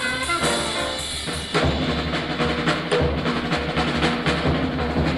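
Bebop jazz recording: a horn line with trumpet and saxophone ends about a second and a half in, and then a drum kit plays alone, with busy snare and bass-drum strokes.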